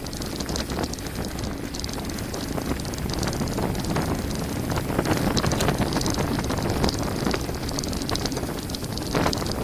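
Mountain bike descending a gravel forest road at speed: wind rushing over the microphone, with tyres crunching over gravel and the bike rattling in scattered clicks.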